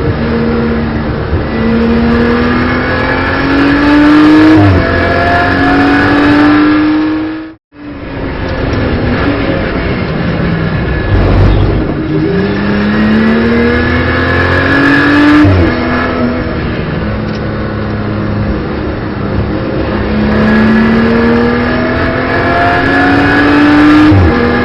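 Onboard sound of a BMW M240i Racing Cup car's turbocharged straight-six at racing speed. The engine note climbs steadily through each gear and drops sharply at the upshifts, about three times. The sound cuts out completely for a moment just under eight seconds in.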